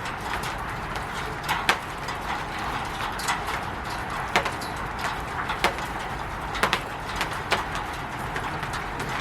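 Rain falling on a roof: a steady hiss of rain with sharp, irregular taps of heavier drops striking the roof, the loudest coming about 1.7 and 4.4 seconds in.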